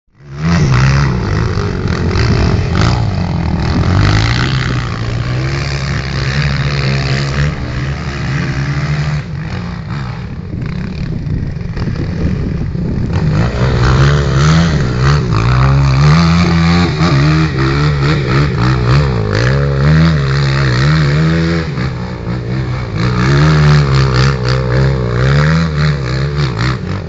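Motorcycle engine revving, its pitch rising and falling again and again.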